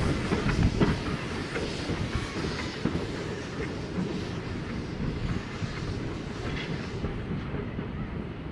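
Heritage railway train rolling along, its wheels clicking and knocking over the rail joints, fading away towards the end.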